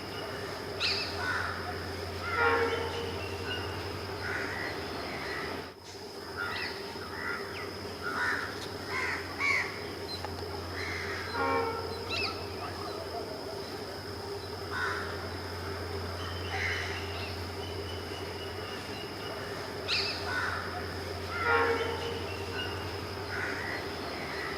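Birds calling at the trackside, crows cawing among them, in short scattered calls over a steady low hum.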